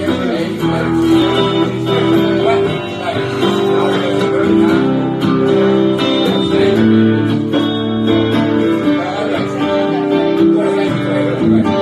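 Live band music: the guitar-led instrumental introduction of a song, before the vocals come in.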